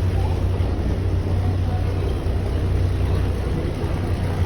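River tour boat's engine running steadily, a low even hum heard on board.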